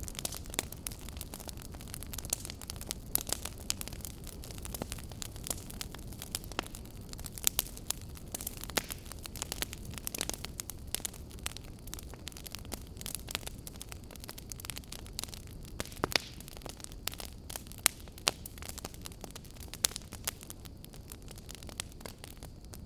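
Wood fire burning: a steady low rumble of the flames with frequent irregular sharp crackles and pops from the burning firewood.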